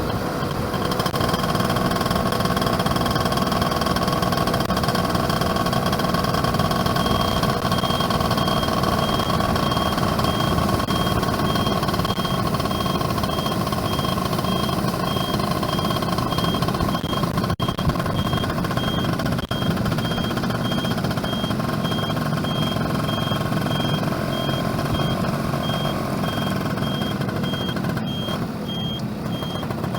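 Yamaha F1ZR's small two-stroke engine running steadily while riding, with road noise. From about a quarter of the way in, a high-pitched beep repeats at an even pace.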